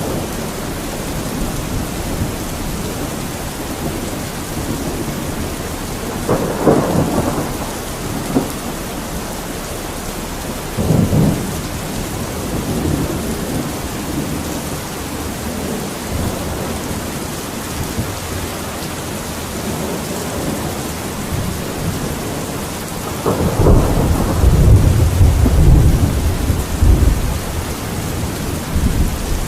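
Steady rain falling, with a few low rumbles swelling over it; the longest and loudest lasts a few seconds, about three-quarters of the way through.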